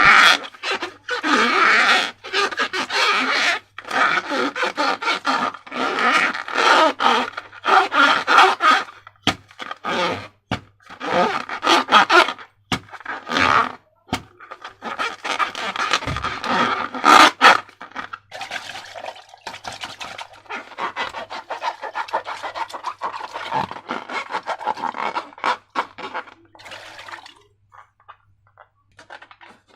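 Slime and rubber balloons being handled by hand, making rubbing and scraping noises in irregular bursts with short gaps between them.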